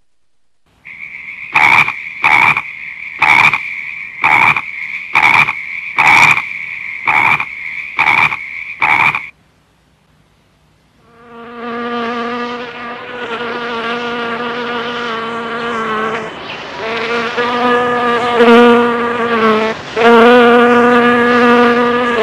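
A frog croaking about ten times in a steady series, each call short and high-pitched. After a pause, an insect buzzes steadily in long stretches, like a fly or bee in flight.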